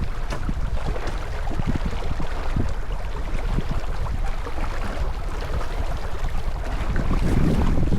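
Wind buffeting the microphone aboard a J24 sailboat under way, with a steady rush of water along the hull; a little louder near the end.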